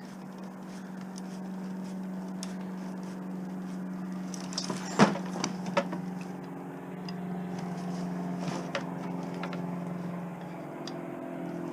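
A steady low hum with overtones, with light clicks and one sharp knock about five seconds in, from scrap being worked with a screwdriver.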